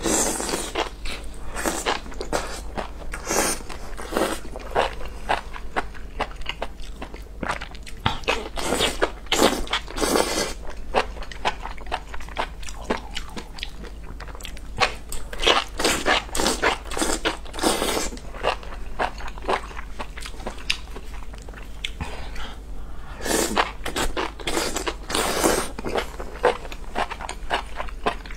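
Close-miked eating of enoki mushrooms in chili oil: repeated biting and chewing with crunchy sounds, coming in runs with short pauses between mouthfuls.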